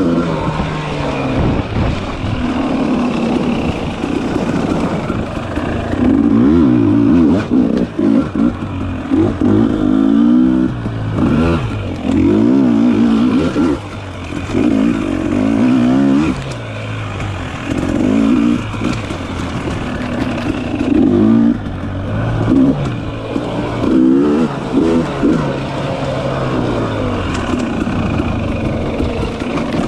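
Dirt bike engine pulled through repeated short bursts of throttle, its pitch rising and falling every second or two as the rider works along twisty singletrack.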